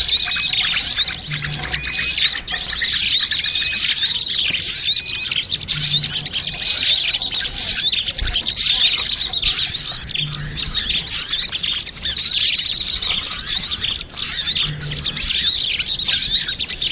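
A bird-lure recording of many small birds chattering at once: dense, overlapping high chirps and twitters, mixed to imitate a noisy flock. A faint low note comes about every four and a half seconds.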